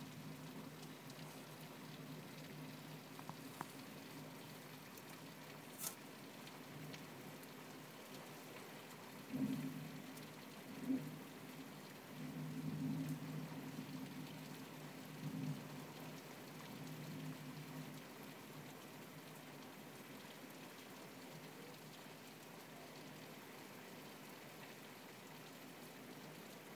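Steady rain falling, with a low hum under it and a few brief low bumps near the middle.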